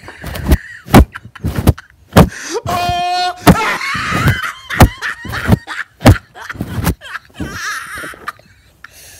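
A run of loud, sharp knocks and thumps, irregularly spaced at roughly one or two a second. Between them come short high-pitched vocal squeals, the clearest a held one about three seconds in.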